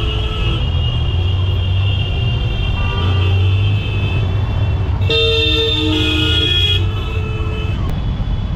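Road traffic with engines running and vehicle horns honking, one horn sounding loudly for under two seconds about five seconds in.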